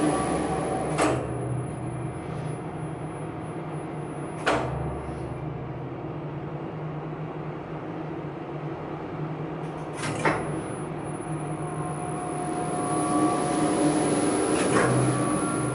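Elevator machine-room equipment humming steadily with several held tones. The hum drops back after the first couple of seconds and builds up again near the end. Four sharp clicks come at uneven intervals.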